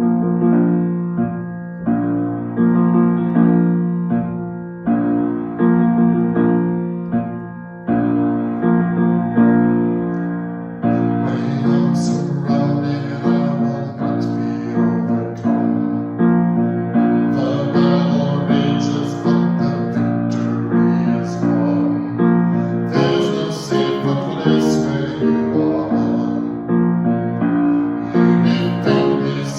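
Piano playing an unhurried instrumental piece of struck chords and melody notes that ring and fade; about a third of the way in it grows fuller and brighter.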